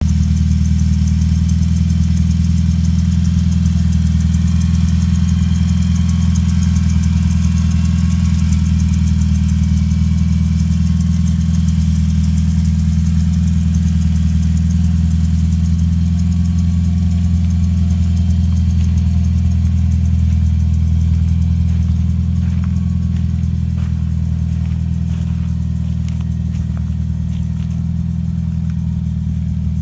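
Supercharged Renault Dauphine Gordini's rear-mounted four-cylinder engine idling steadily, slightly quieter over the last several seconds.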